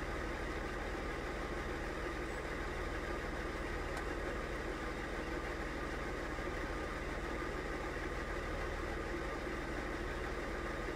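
Nissan VG30E 3.0-litre V6 idling steadily at operating temperature, heard from inside the car's cabin.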